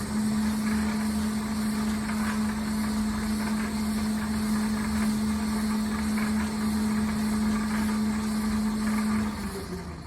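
Clausing 4901 metal lathe's motor and drive train switched on with a sudden start and running at a steady pitch with a hum, then switched off about nine seconds in, its pitch falling as it coasts down.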